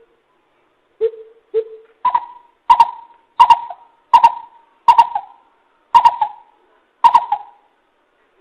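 Coucal calling: a series of about nine deep, hollow hoots. The first two are lower, then the pitch steps up and holds, with the gaps between hoots slowly lengthening.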